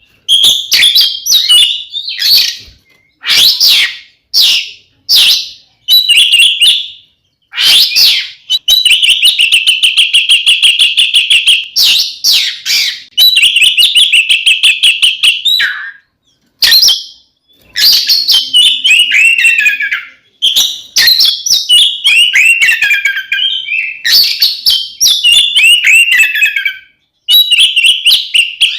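Oriental magpie-robin (kacer) in loud, full-throated fighting song. It begins with short separate whistled notes, runs into long rapid trills, then sings phrases of quick notes that slide downward. This is the aggressive rival-challenging song that keepers play to provoke other males.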